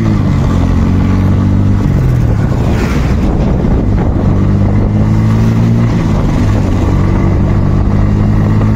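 Bajaj Pulsar N160's single-cylinder engine running at road speed, around 67 km/h, with a steady note. About two seconds in the note dips and blurs for a couple of seconds, then steadies again.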